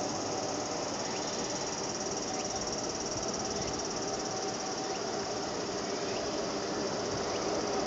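A steady, high-pitched chorus of insects shrilling in a fast, even pulse.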